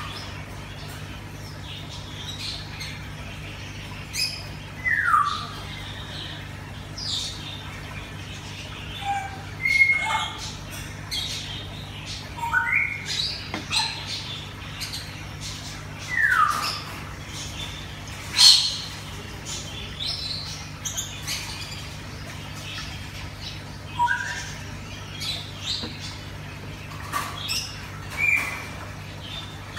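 Birds calling at intervals: short squawks and chirps and a few falling whistles, the sharpest squawk about two-thirds of the way through, over a steady low hum.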